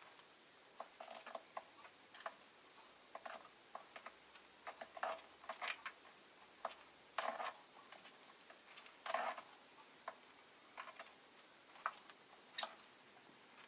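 Irregular quiet clicking and tapping from a rosy-faced lovebird, with one short, sharp high chirp near the end that is the loudest sound.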